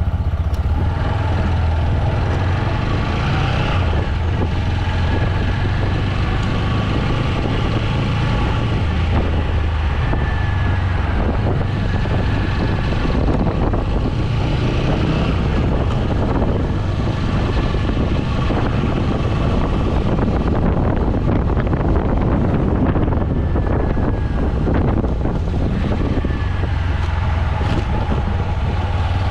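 TVS Apache 200 motorcycle's single-cylinder engine running under way, with wind noise on the microphone.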